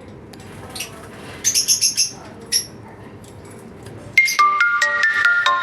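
Pet parrots chirping: a quick run of high chirps about a second and a half in and one more a second later. About four seconds in, music with a plinking melody starts and becomes the loudest sound.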